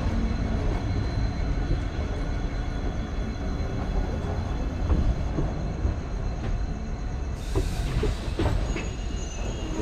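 Passenger train coaches rolling on the track, heard from on board: a steady low rumble with a few sharp clanks in the second half.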